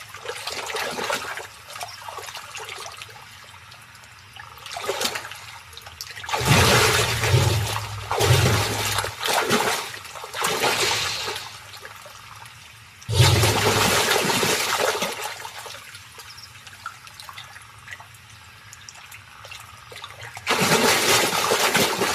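Nile crocodiles thrashing in river water: splashing and churning in several bursts of a few seconds each, with quieter water between them.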